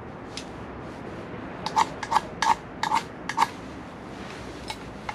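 A lighter's igniter clicking repeatedly while the new stove is being lit, about eight short, sharp clicks coming in quick succession between about 1.5 and 3.5 s in, after a single click at the start.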